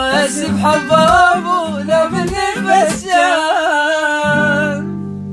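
Iraqi song: a male voice singing a wavering, ornamented melody over a steady low beat. Shortly before the end the voice stops, leaving a held low note.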